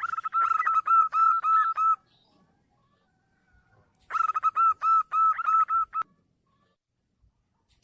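Zebra dove (perkutut) cooing. Two phrases of quick, evenly repeated notes, each about two seconds long, come about two seconds apart.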